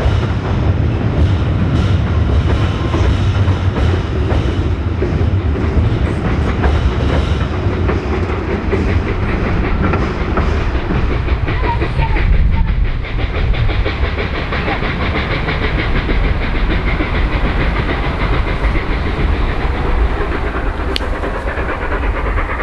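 Steam-hauled passenger train rolling past close by, its carriage wheels clattering steadily over the rail joints.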